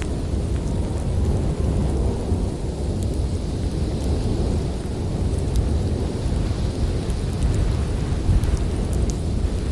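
Snowstorm wind blowing with a steady deep rumble, with small sharp crackles and pops from a wood fire scattered through it.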